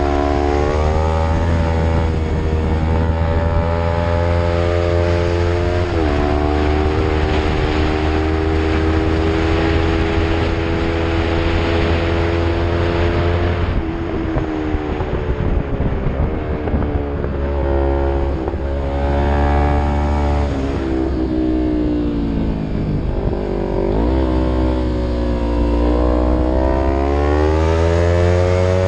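Yamaha MT-03 motorcycle with an Arrow full-system exhaust, running under load uphill: the engine note climbs, drops sharply at a gear change about six seconds in, holds steady, eases off around the middle, then revs up again twice, with another shift near the end. A steady low rumble runs underneath.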